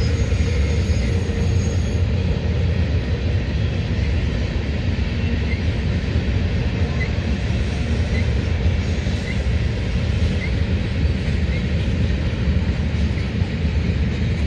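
CSX freight train rolling past: a steady, continuous rumble of cars on the rails.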